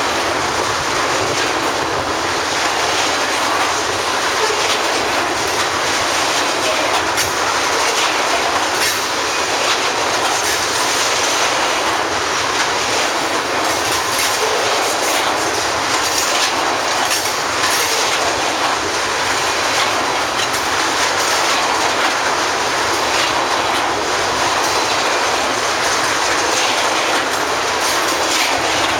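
Loaded oil train of tank cars rolling past, with a steady loud rumble of steel wheels on the rails and a run of clicks from the wheels over the rail joints.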